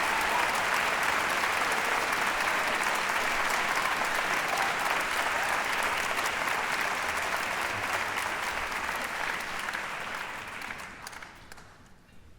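Audience applauding, the applause dying away over the last couple of seconds.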